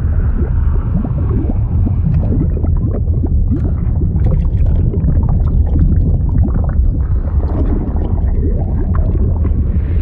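Liquid sound effect: a deep, steady underwater rumble with many short bubbling, gurgling blips over it.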